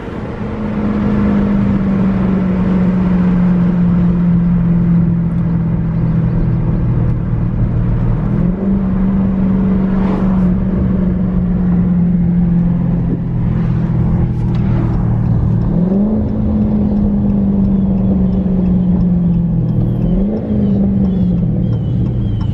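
Dodge Charger Scat Pack's 392 (6.4 L HEMI) V8 running through an exhaust with the mid mufflers deleted and the resonators kept: a loud, steady drone while driving, with the engine speed rising briefly three times and easing back.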